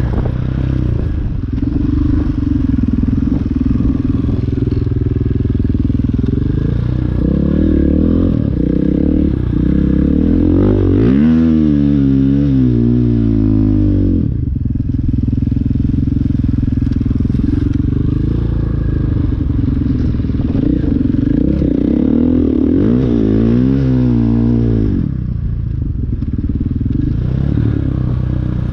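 Dirt bike engine running under way, the throttle opening and closing. The engine pitch climbs and swings twice, about halfway through and near the end, with a brief sharp drop in between.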